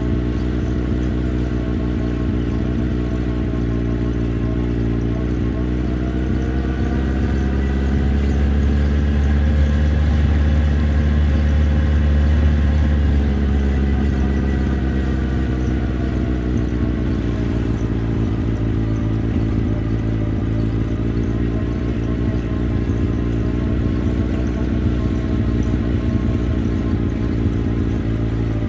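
Motorcycle engine running under way. Its note climbs gradually from about six seconds in, then eases back down and settles into a steady lower pitch.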